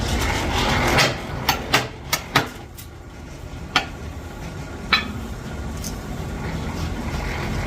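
Sharp metallic clanks from steel bulldozer track-chain parts being struck or knocked together: a quick run of five about a second in, then two more spaced about a second apart, over a steady low rumble.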